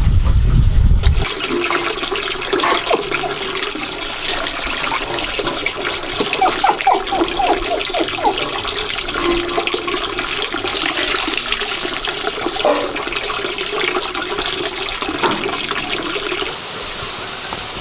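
A low rumble for about the first second, then water running and splashing steadily, with small knocks and clatters scattered through it.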